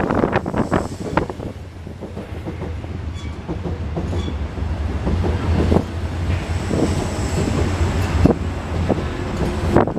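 Line 4 electric subway train moving along the platform, its wheels clacking over rail joints, with a low rumble that swells through the middle and a faint high steady whine.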